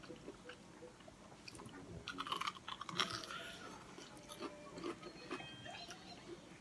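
Someone biting into and chewing a crispy deep-fried breaded sausage roll, the crust crunching, with the loudest crunches about two to three seconds in.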